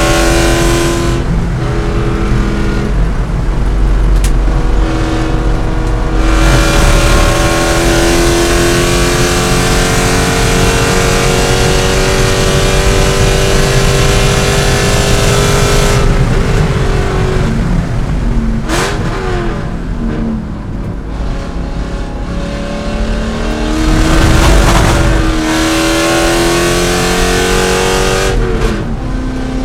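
C5 Corvette's V8 engine at race pace, pulling hard with its pitch climbing over long stretches. The pitch drops sharply a few times, about halfway through and again near the end, as the car shifts or brakes for corners.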